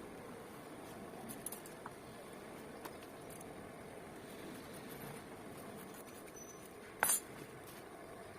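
Low steady room noise with a few faint clicks, then one sharper click or clink about seven seconds in.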